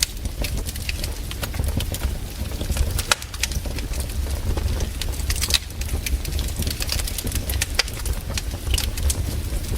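Wood campfire crackling, with irregular pops and snaps over a steady low rumble.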